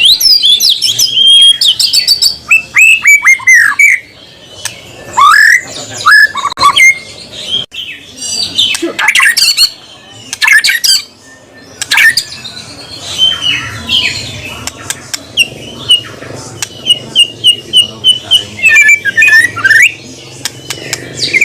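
White-rumped shama (murai batu) singing a loud, varied song of sweeping whistled notes, quick runs of repeated notes and harsh rattling phrases, with brief pauses between bouts.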